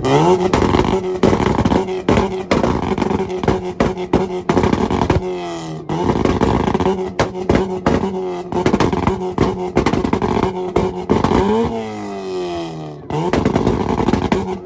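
Mazda Miata engine held on a two-step launch-control rev limiter, with rapid staccato popping and crackling from the exhaust as the ignition cuts in and out. The revs sweep up at the start, dip and climb again about five seconds in, and again near the end.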